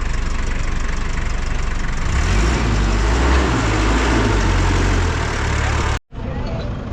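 Truck engine idling steadily, growing louder and heavier about two seconds in. The sound drops out abruptly near the end and comes back as a lighter engine background.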